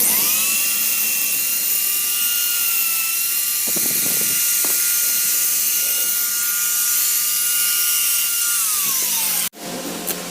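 High-speed electric power tool spinning up and running with a steady high-pitched whine over a hiss. It starts to wind down with a falling pitch near the end, then cuts off suddenly.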